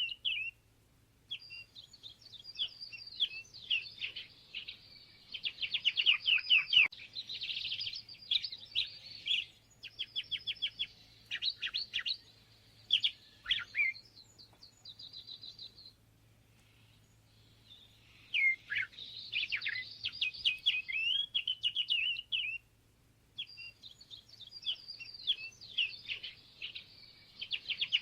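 A songbird singing long, rambling songs of rapid, varied chirps and trills, in several bouts separated by short pauses.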